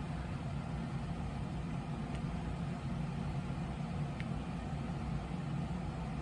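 Steady low mechanical hum, like a motor or appliance running, with two faint ticks.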